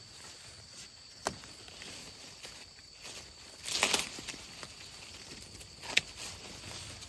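A few sharp snaps or knocks and a brief rustling clatter, over a steady high-pitched drone.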